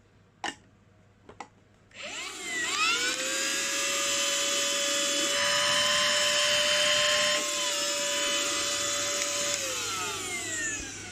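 Cordless handheld car vacuum (8000 Pa): two clicks, then its motor spins up with a rising whine about two seconds in and runs steadily with a high whine and airflow hiss, the hiss growing louder for a couple of seconds midway. Near the end it is switched off and winds down with a falling whine.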